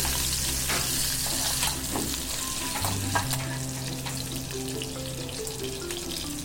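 Onion pieces sizzling in hot oil in a pan, with a few clicks and scrapes from a metal slotted spoon as they are stirred and lifted out.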